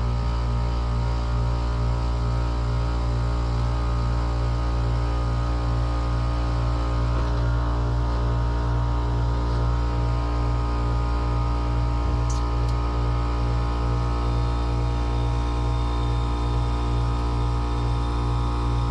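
Heat pump compressor running with a steady, loud hum that beats about twice a second. It sounds rough, which the technician takes as a sign that the compressor is about to fail.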